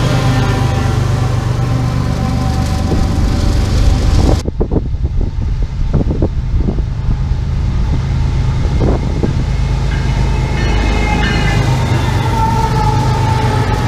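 Passing train: a steady low rumble of diesel locomotive engines with rail noise. The sound changes abruptly about four seconds in. Scattered sharp clacks of wheels on the rails follow, and a faint whining tone comes near the end.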